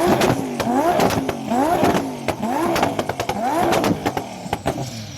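Twin-turbo Audi R8 engine being blipped hard about once a second, five times, each rev rising and falling, with sharp pops and cracks from the exhaust throughout. The revving stops about four seconds in.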